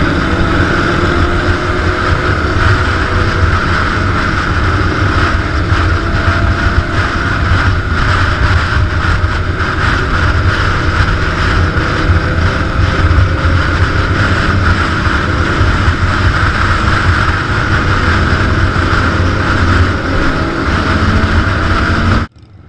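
Big motorcycle engine running steadily under way, with wind rushing over the microphone; the sound cuts off abruptly near the end.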